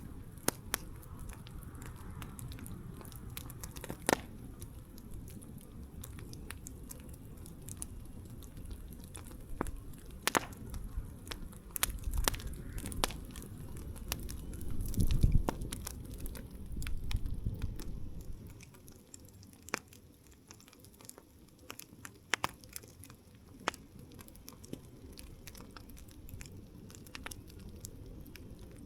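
Wood campfire crackling, with irregular sharp pops and snaps of burning wood over a low rumble. The rumble swells in the middle and fades about eighteen seconds in, leaving mostly the pops.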